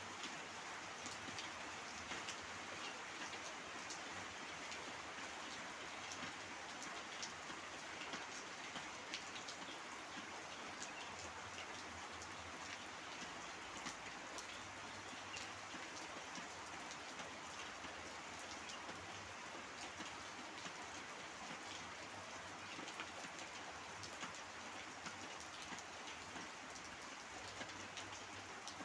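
Heavy rain falling steadily, with many sharp individual drop hits scattered through the even hiss.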